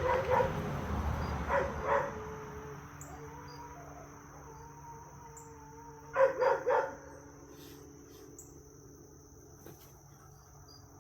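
Dogs barking in play. There is a burst of barks at the start, two more about two seconds in, and three quick barks about six seconds in, with a drawn-out whine between. Crickets give a steady high chirring underneath.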